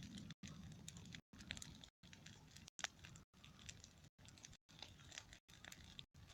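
Faint crackling of a bonfire burning down, with scattered sharp pops and one louder snap a little before the middle.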